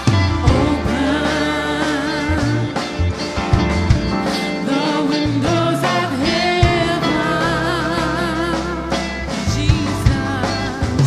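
Gospel song: a singer holding long, wavering notes over a band with steady bass and drums.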